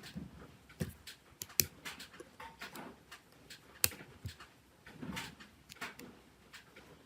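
Irregular short scraping and rubbing strokes from small-scale handwork on a phone, with two sharp clicks about one and a half and four seconds in.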